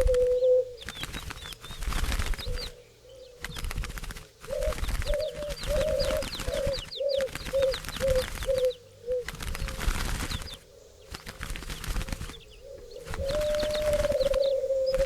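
A flock of doves, with wings flapping in repeated bursts. Short low coos come about two a second through the middle, a longer drawn-out coo starts near the end, and faint high chirps sound in between.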